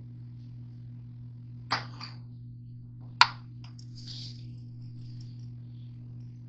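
Two sharp knocks of a knife against a cutting board about a second and a half apart, the second louder, followed by a few light taps, while cutting up hotdogs. A steady low electrical hum runs underneath.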